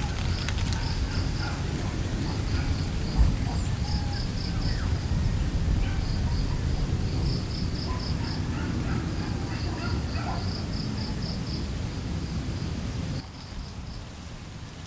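Outdoor ambience of insects chirping in repeated pulsing trills over a steady low rumble of wind. The rumble drops away suddenly near the end.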